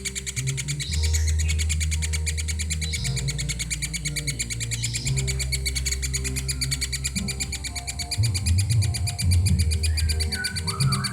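Young woodpecker calling: a fast, continuous chitter with short high chirps about every two seconds and a falling call near the end, over background music with low notes.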